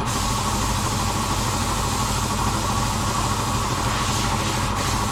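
A machine running steadily: a low hum with a hiss over it.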